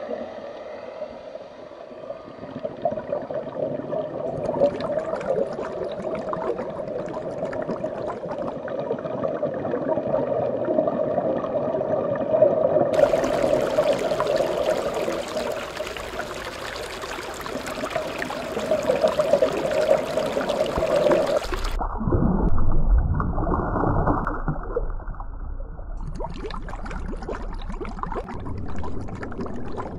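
Running, gurgling water, steady throughout but changing in character twice, about 13 and 22 seconds in.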